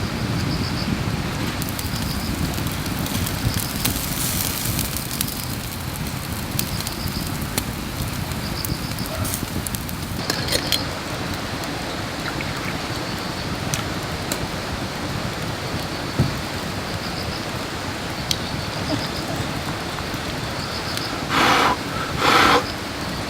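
Wood fire burning with scattered small crackles over a steady outdoor rumble. A few louder bursts of noise come near the end.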